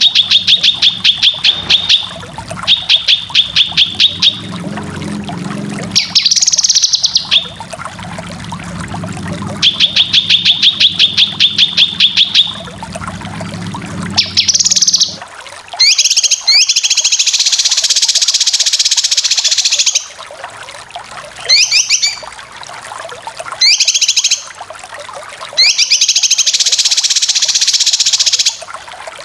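Cucak kinoy singing its besetan song: rapid trills of sharp repeated high notes in bursts of a second or two, giving way about halfway through to long, harsh rattling phrases of two to four seconds.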